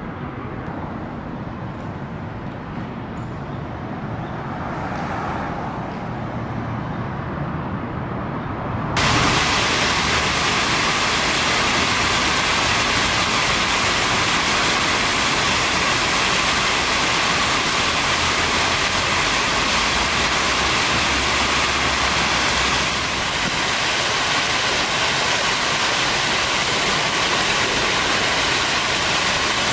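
Fountain water splashing in a loud, steady rush. For the first nine seconds there is only a lower rumble. Then the sound jumps abruptly to the full rush of water.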